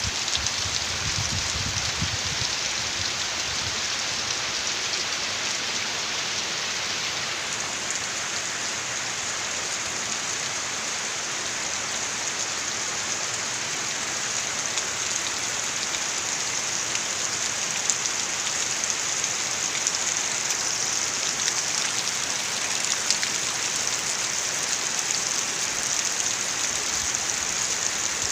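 Heavy rain pouring steadily, with scattered sharper drop hits in the second half.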